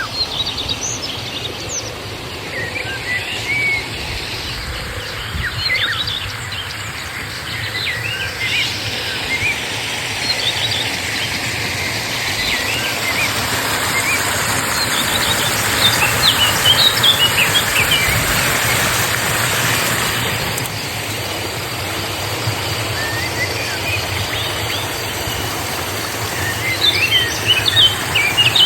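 Steady rush of flowing river water, with small birds chirping in short scattered bursts over it. The chirping is busiest in the middle and near the end.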